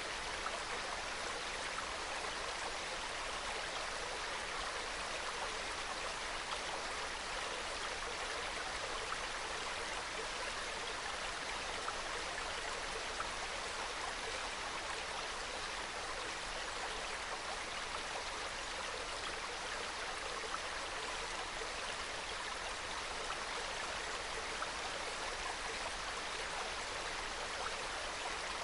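Small mountain stream flowing, a steady trickling and babbling of water over rocks.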